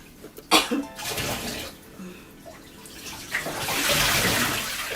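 Water running and splashing into a bathtub as a soaked bed cover is wrung out by hand, the stream heaviest in the second half. A brief sharp sound comes about half a second in.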